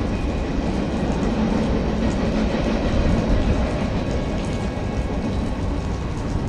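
Freight cars of a mixed freight train rolling past: a steady rumble of steel wheels on the rails with faint clicking, under the hiss of heavy rain.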